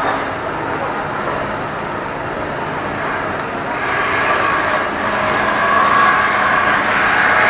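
Steady machinery noise, a dense rough hiss and rumble that swells a little from about halfway in.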